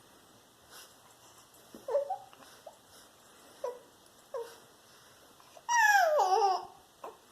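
A dog making a string of short, pitched whines and yips, then one loud, longer warbling call whose pitch bends up and down, near the end. The noises are happy, excited vocalising.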